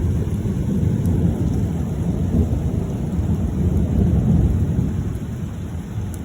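Thunder rumbling low and long, swelling twice and fading away near the end, with rain falling.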